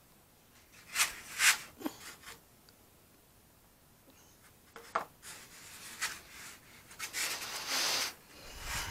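Quiet workbench handling noises: two short rubbing or scraping sounds about a second in, a sharp click near the middle, and a longer spell of rubbing near the end, as materials are picked up and moved.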